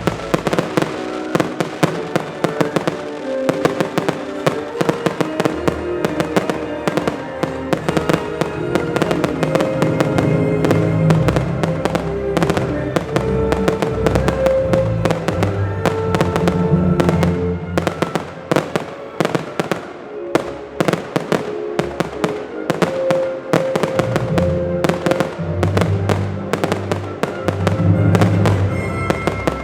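Fireworks display set to music: many sharp bangs and crackles, several a second, over music played through loudspeakers.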